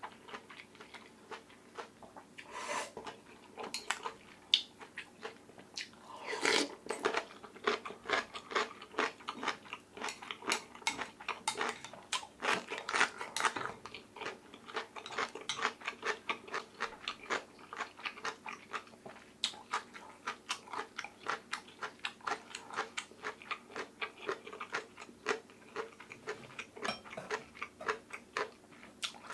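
Close-miked chewing of a mouthful of oyster rice soup, a dense run of small wet mouth clicks several a second, with a couple of louder sounds in the first seven seconds.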